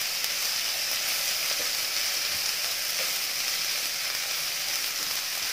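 Shredded cabbage, capsicum and tomato stir-frying in hot oil in a kadhai over a high gas flame: a steady sizzling hiss, with a few faint knocks and scrapes of the wooden spatula stirring the vegetables.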